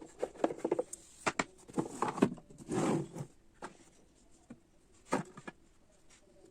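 Handling sounds in a small room: scattered light clicks and taps of small objects being picked up and set down, with a short rustle about three seconds in.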